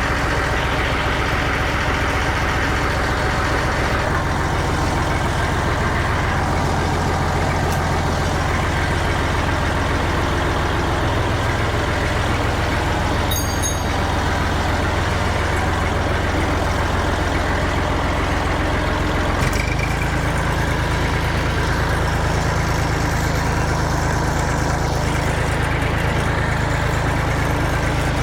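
Massey Ferguson MF230 tractor engine running steadily, freshly restarted, its engine speed changing about four seconds in and again about twenty seconds in.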